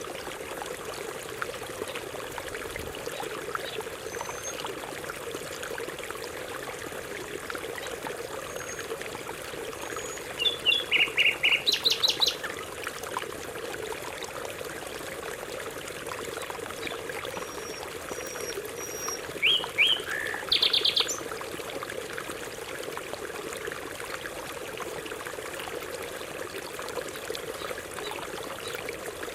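Canary singing in two short bursts of rapidly repeated notes, one about ten seconds in and one about twenty seconds in, over a steady rush of running stream water.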